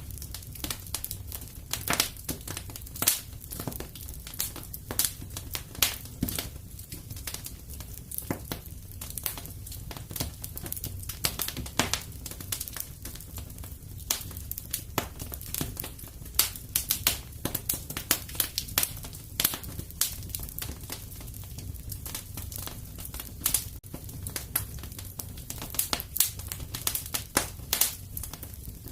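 Fireplace fire crackling: irregular sharp pops and snaps over a steady low rumble of the burning fire.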